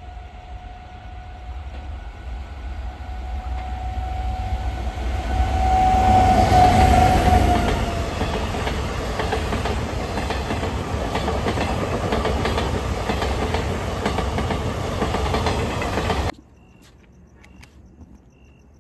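A train passing close by on the track, its noise building to a peak about six or seven seconds in, with wheels clattering over the rails. The sound cuts off suddenly near the end.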